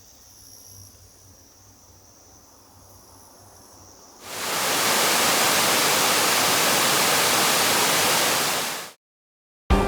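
Faint, steady insect calls, then a little after four seconds a loud, even rush of falling water from a waterfall cuts in, runs for about five seconds and fades out, followed by a moment of silence.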